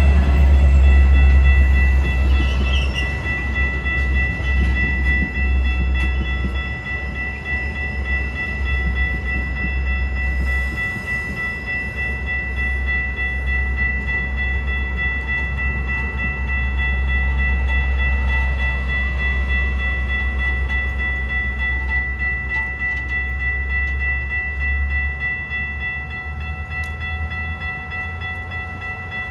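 Metra commuter train running, a heavy low rumble with a steady high-pitched whine over it. The sound slowly fades toward the end.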